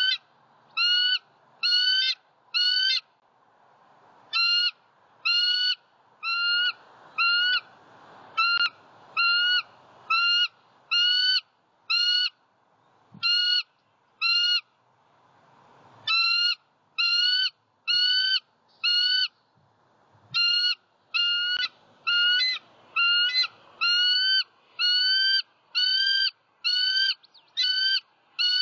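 A bird calling a long series of short, identical notes that rise slightly at the end, about two a second, in runs broken by short pauses.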